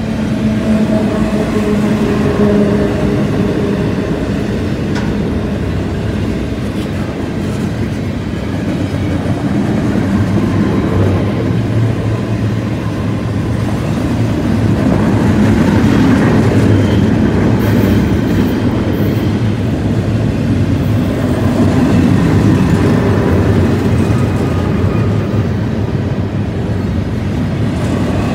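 Double-stack container well cars of a long freight train rolling past: a steady rumble and clatter of steel wheels on rail, with faint ringing tones now and then.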